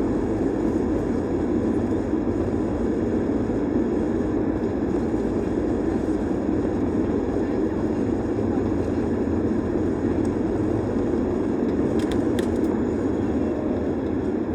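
Steady roar of an Airbus A320-200's engines and airflow heard inside the passenger cabin at high thrust during takeoff.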